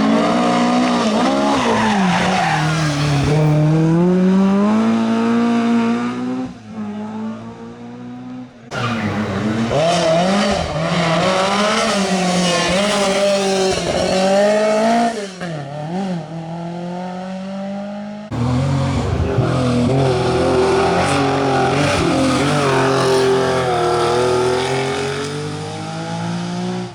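Rally cars driven hard, engines revving up and falling back through the gears, with tyres squealing. The sound changes abruptly twice, about nine and eighteen seconds in, as one car's run gives way to another's.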